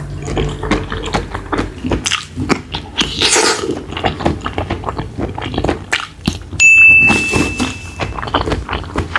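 Eating sounds: a run of small clicks, knocks and taps of dishes and utensils being handled. About two-thirds of the way through, a sudden high steady tone rings for over a second, the loudest sound.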